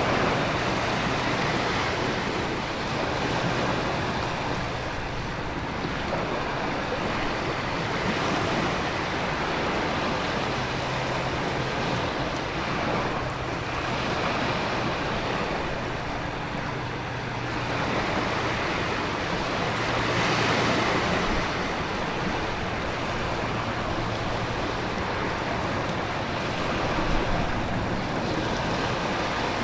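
Storm ambience: heavy rain with ocean surf and wind, a dense steady wash that swells and eases every several seconds.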